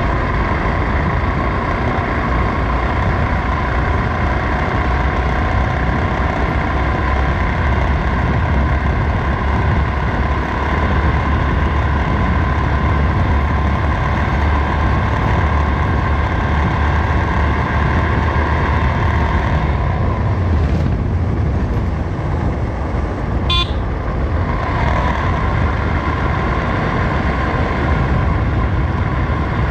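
Motorcycle ride along a road: steady engine and road noise heavy in the low end, with a short vehicle horn toot about three-quarters of the way through.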